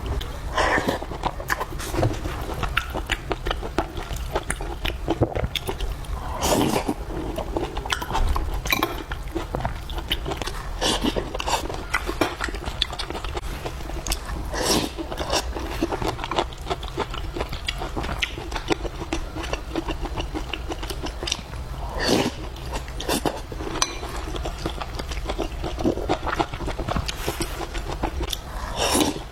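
Close-up eating sounds: a person chewing fried noodles, vegetables and rice, with many short wet smacks and clicks of the mouth over a steady low hum.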